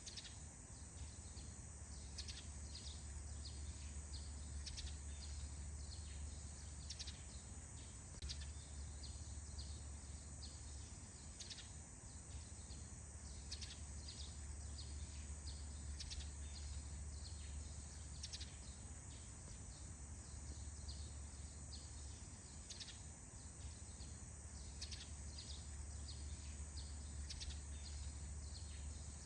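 Faint morning birdsong in a cypress forest: many short, falling chirps, several a second, over a steady high hiss and a low rumble of soft wind that comes and goes.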